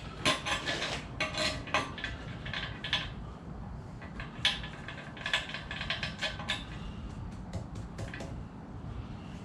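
Loose metal bolts clinking and rattling together as they are handled, in quick runs of clicks during the first three seconds and again around the middle, sparser toward the end.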